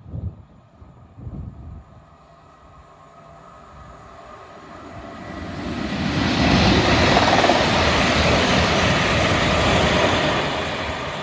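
Class 350 electric multiple unit running into and along the platform: the sound of its wheels on the rails builds over several seconds, is loudest for about four seconds as the carriages go by, and eases off near the end.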